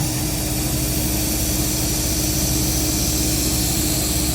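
Rong Fu round-column CNC mill running a shallow facing pass in Delrin, its spindle set to about 3,000 RPM: a steady hum with one constant tone, under the hiss of an air-blast nozzle blowing chips clear.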